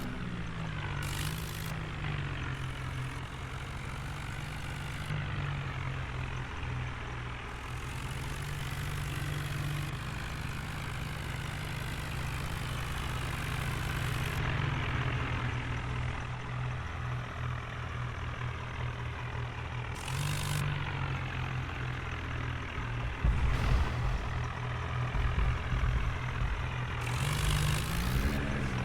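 Diesel engine of a New Holland tractor running steadily under load while hauling a fully loaded trolley. The engine note shifts up and down a few times, and a heavier low rumble comes in near the end.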